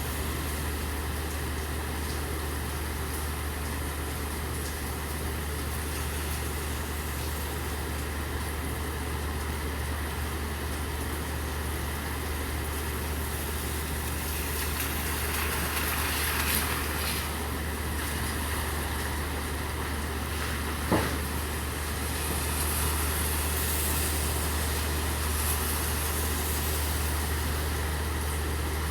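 Steady rain with an idling truck engine humming low and constant underneath. About halfway through the hiss briefly swells louder, and one sharp knock sounds about two-thirds of the way in.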